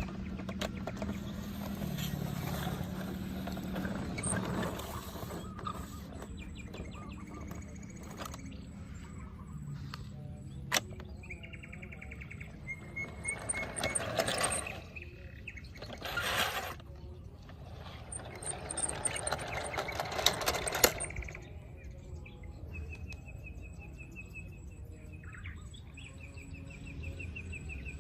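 Birds chirping, with rapid evenly pulsed trills, and several louder rushes of noise in between.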